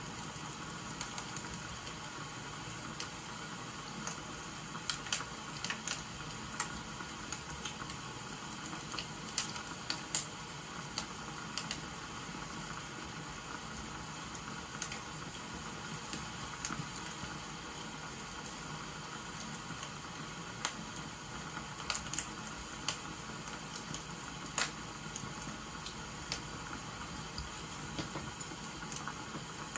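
Wood fire crackling, with irregular sharp pops over a steady rain-like hiss.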